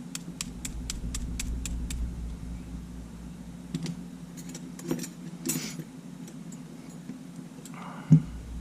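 Sony A7 shutter button assembly clicking about five times a second for two seconds as it is pressed over and over to work sand out of it, then a few scattered clicks. A brief hiss comes about halfway through, a thump near the end, and a steady low hum runs throughout.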